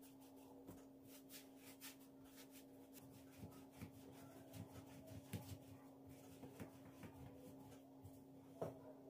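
Near silence: faint steady room hum with scattered soft, light taps and handling noises, a couple of slightly sharper knocks near the end.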